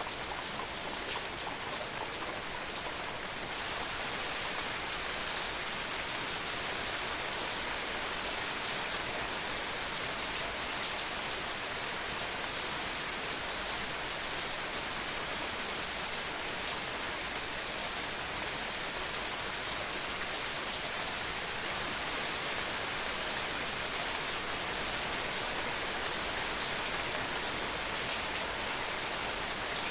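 Steady rain falling, an even dense hiss of drops that grows slightly heavier a few seconds in.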